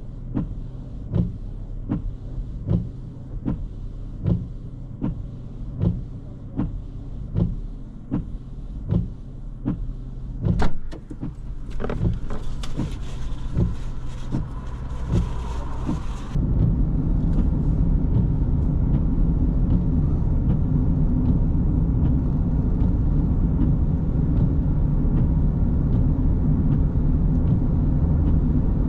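Vehicle cabin noise while driving. Through the first half, regular ticks come a little more than once a second over a low engine and road rumble. A hiss rises about twelve seconds in and cuts off suddenly near the middle, and the rumble then steps up louder and stays steady.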